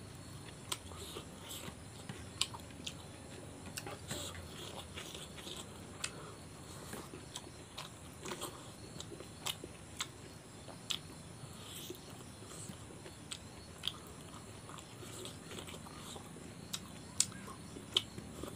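Close-miked chewing and biting of a man eating rice and chicken curry with silkworms by hand. Wet mouth smacks and small sharp clicks come irregularly, a few a second.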